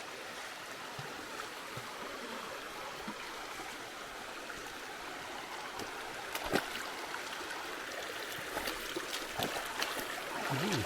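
A shallow river steadily rushing and trickling over rocks, with a few sharp knocks, one louder about six and a half seconds in.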